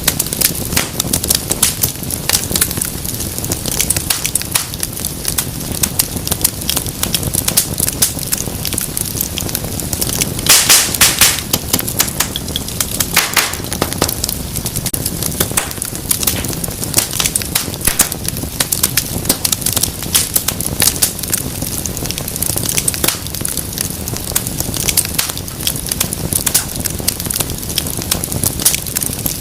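Fire crackling and popping in a dense, irregular patter of sharp snaps. There is a cluster of louder pops about ten to eleven seconds in, and another about thirteen seconds in.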